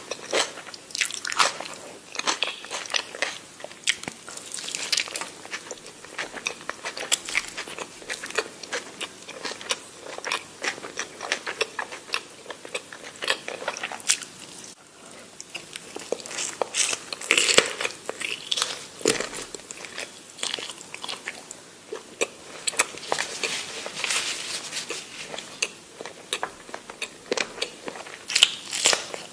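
Close-miked eating sounds: a person chewing and biting food with many sharp, irregular mouth clicks and crunches, easing briefly about halfway through.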